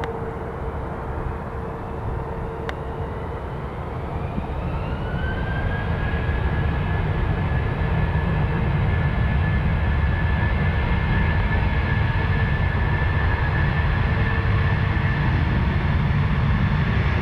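Jet airliner's engines spooling up: a whine climbs in pitch about four seconds in and then holds steady over a low, continuous rumble that grows louder.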